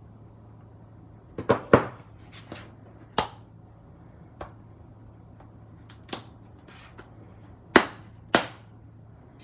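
Rubber stamp tapped on an ink pad and pressed onto paper on a tabletop: a series of about eight sharp knocks, unevenly spaced, the two loudest near the end.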